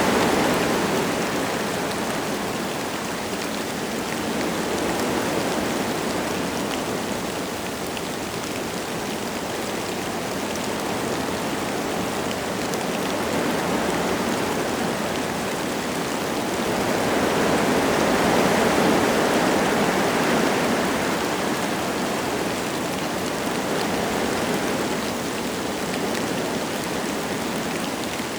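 Wind gusting through forest trees with light rain falling, a steady rushing that swells and eases in slow waves, with a strong gust at the start and another about two-thirds of the way through.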